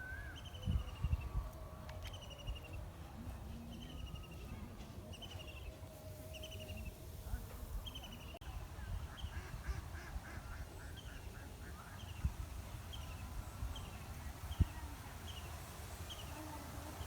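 A bird calling over and over, a short high falling note repeated evenly a little more than once a second, over a low rumble.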